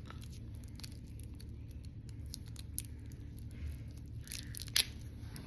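Candy package being handled and torn open to get a sticky peeling candy out: scattered small crinkles and ticks, with one sharp snap a little before the end.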